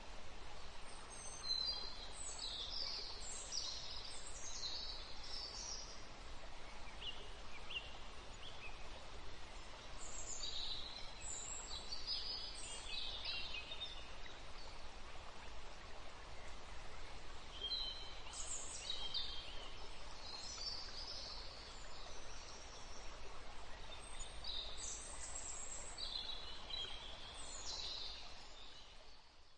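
Birds chirping in short clusters every several seconds over a steady low background hiss.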